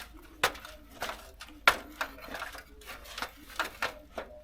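Metal woodstove pipe parts being handled and fitted: a quick, irregular run of sharp knocks and clanks, about a dozen, that stops just before the end.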